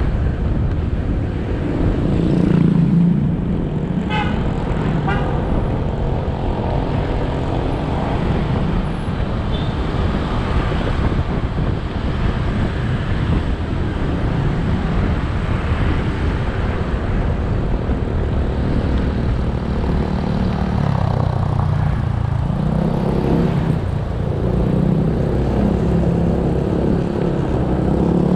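Motorcycle engine running on the move, with wind and road noise, its note rising and falling with speed. Two short horn beeps come about four and five seconds in.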